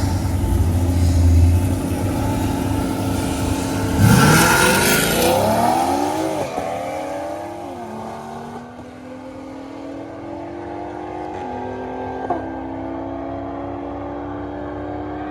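Car engine rumbling, then launching hard about four seconds in and accelerating. Its pitch climbs and drops back at each of several upshifts as it pulls away.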